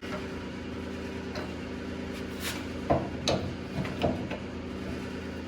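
Bladed power tool running steadily while cutting at a seized part of the car's rear suspension, with a few sharp knocks and scrapes as the blade catches, about halfway through.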